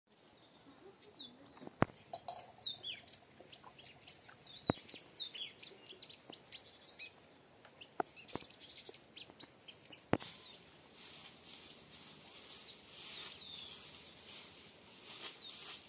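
Small birds chirping in trees: many short, high chirps and quick pitch slides, broken by a few sharp clicks. From about ten seconds in the chirps give way to a steady, pulsing high hiss.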